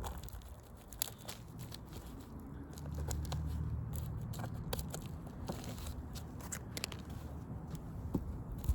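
Faint scattered clicks and crackles of asphalt roof shingles being handled and pulled at, over a low steady rumble.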